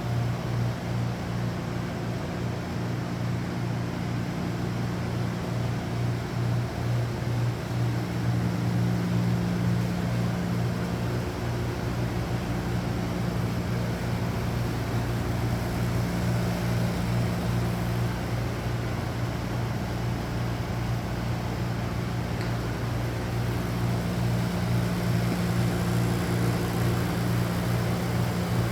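Machine-shop machinery running steadily with a constant low hum.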